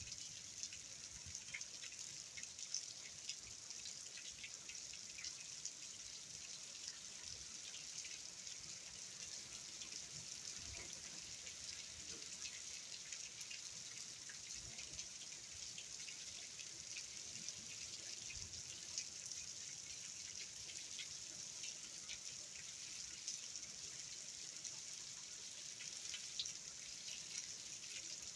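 Hurricane Ian's rain falling steadily: an even hiss with many small drop ticks scattered through it.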